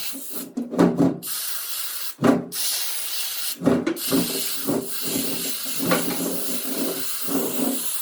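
A steady hiss, like spray or escaping air, broken by short louder sounds every second or so.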